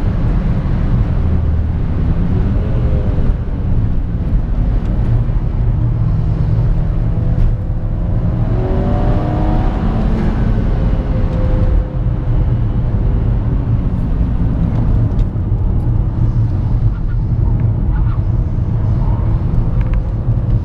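Tuned Seat Leon Cupra 1P's turbocharged 2.0-litre four-cylinder engine and exhaust under hard acceleration, heard from inside the cabin. The revs climb and drop back several times, with steady road roar underneath.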